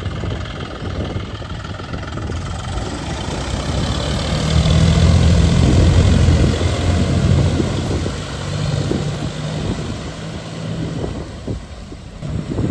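Tractor's diesel engine running with a steady low hum. It grows louder for a few seconds in the middle and eases off near the end.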